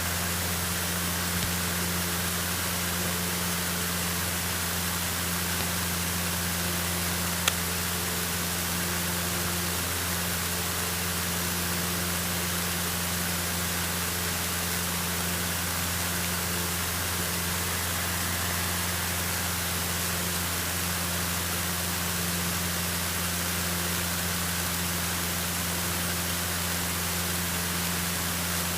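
Cessna 152's four-cylinder Lycoming engine and airflow heard in the cabin during the climb: a steady low drone under a constant hiss. A single short click about seven and a half seconds in.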